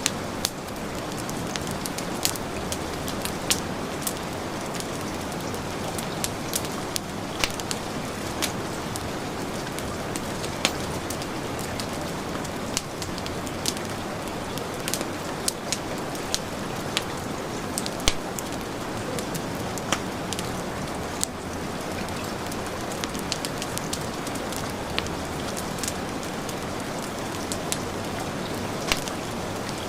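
Steady heavy rain hissing, mixed with a wood fire crackling and popping in a fireplace: many short sharp pops at irregular intervals.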